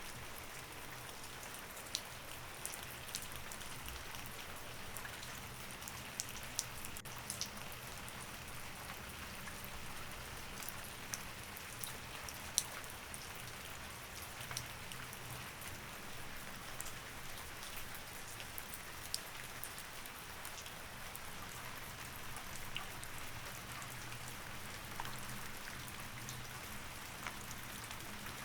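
Steady rain, with frequent sharp ticks of single drops over an even hiss, and a faint low hum underneath.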